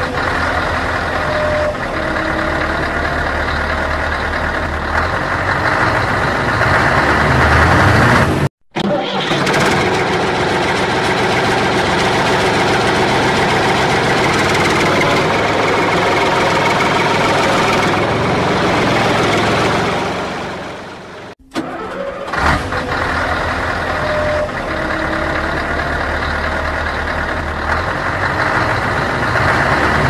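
Motor-vehicle engine sound, running steadily with a few held tones, broken by two abrupt cuts about a third and two-thirds of the way through; it is laid over non-motorised toy trucks, so it is an added sound effect rather than the toys themselves.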